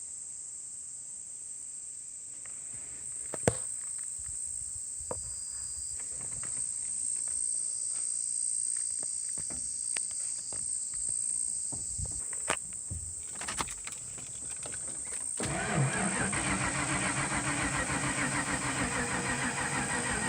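Starter motor cranking the Ford mud truck's engine steadily for about five seconds near the end, without it starting. Before that, crickets chirring with a few scattered clicks and knocks.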